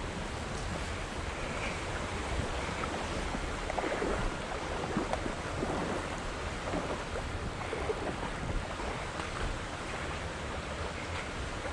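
Steady rush of moving water with wind buffeting the microphone.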